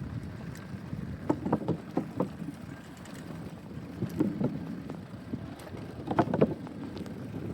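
Wind buffeting the microphone during a bicycle ride, with three short clusters of knocks and rattles: about a second in, around four seconds, and just after six seconds.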